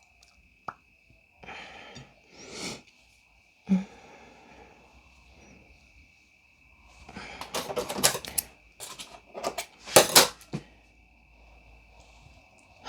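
Handling noises of small objects on a work surface: scattered light clicks, taps and rustles, with a cluster of louder clatters about seven to ten seconds in. A faint steady high whine sits underneath.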